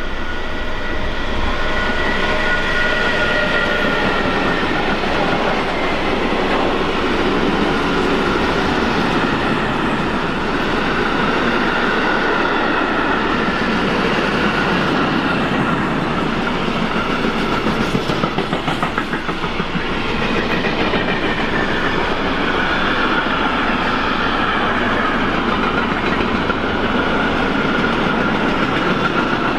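Long mixed freight train, hauled by a DB class 187 electric locomotive, passing close by. The wagons rumble and the wheels click over the rail joints, with high steady tones riding over the rumble at times.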